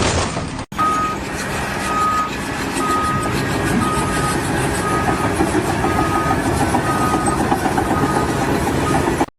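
Reversing alarm on a truck or construction vehicle, beeping about once a second over steady engine and background noise, cutting off suddenly near the end.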